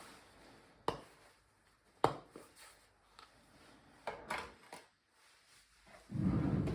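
Kitchen preparation sounds: a few sharp knocks of utensils or items set down on a counter, about a second apart, then some lighter clattering, and a louder low scraping rumble near the end.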